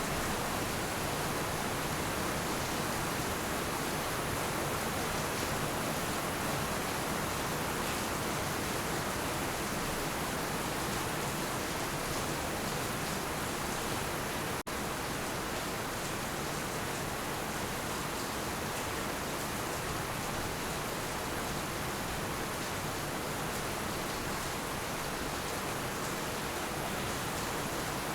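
Heavy rain falling steadily as a dense, even hiss, with a momentary dropout about halfway through.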